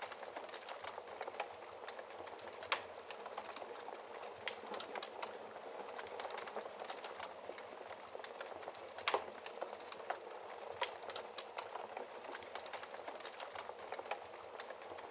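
Wood fire burning in a fireplace: a steady low hiss of flames with frequent sharp crackles and pops, a few louder snaps about 3, 9 and 11 seconds in.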